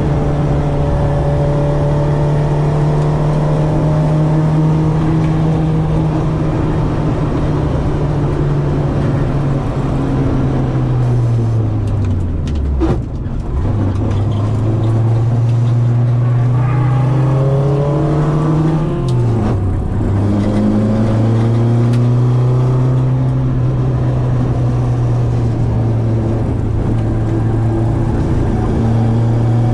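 Citroen AX's 8-valve four-cylinder engine on twin Weber 40 carburettors running hard at high revs. The revs fall away steeply about twelve seconds in, climb again, drop sharply once more near twenty seconds as at a gear change, then climb back and hold steady.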